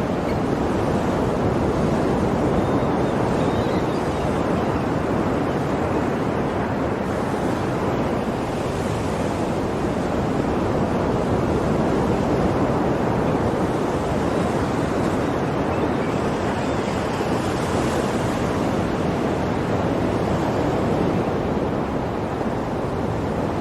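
Sea waves washing onto a shore in a steady, continuous rush, rising and falling gently in loudness every few seconds.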